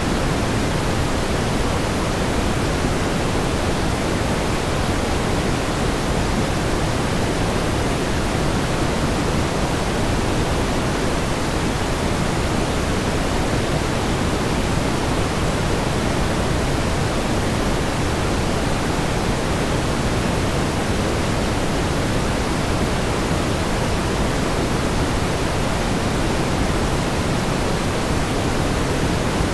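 Steady pink noise: an even, unchanging hiss with more weight in the low end than the highs, like a distant waterfall.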